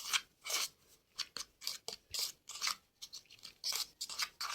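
A spoon scraping and rasping through dry powder in a bowl, in a quick series of short scratchy strokes, about two a second.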